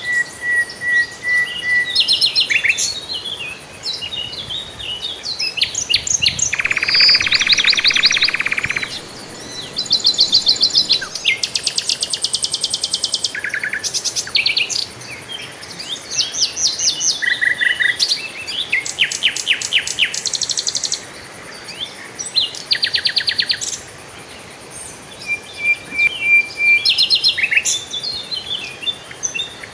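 Songbirds singing and chirping: a run of varied high phrases of rapid trills and fast repeated notes, one after another with short pauses between them.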